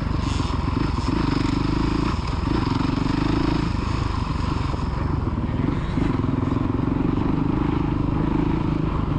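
Motocross bike engine running on the throttle, holding steady revs with brief dips about two seconds in and again around five seconds in.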